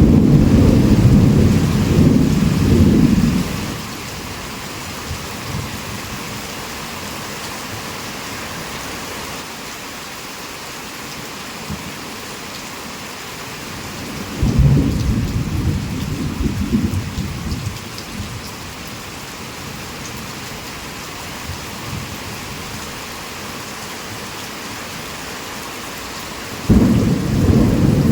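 Heavy rain falling steadily, with rolling thunder. One long rumble runs at the start and fades out about three seconds in, another rolls through around the middle for a few seconds, and a third breaks in just before the end.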